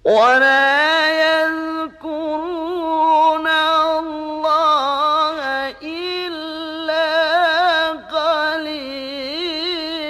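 A man's voice reciting the Quran in the melodic tajwid style (tilawah), drawing out the words "illa qalila" in long held notes with wavering ornaments. There are short breaths about two, six and eight seconds in.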